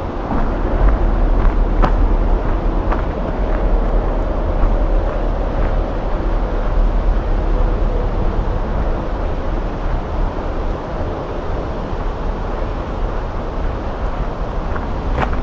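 Wind rumbling on the microphone with scattered light footsteps on the trail, and a faint steady hum for a few seconds in the middle.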